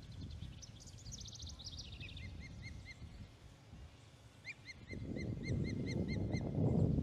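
Osprey calling: a quick falling trill of high notes, then series of short, evenly repeated whistled chirps, about four to five a second. A low rumble underneath grows louder over the second half.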